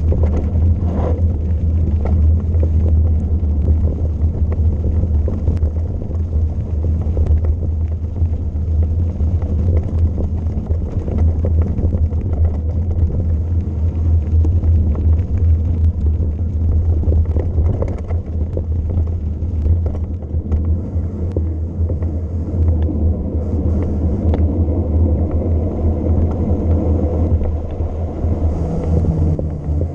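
Heavy wind rumble buffeting the microphone of a camera on a bike riding downhill, with scattered sharp ticks throughout.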